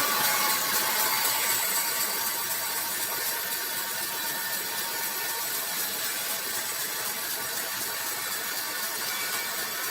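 Sawmill machinery running, a steady hissing noise with a faint whine in it.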